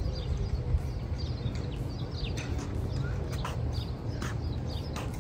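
Small birds chirping: many short, quick calls, some sliding downward in pitch, over a steady low rumble.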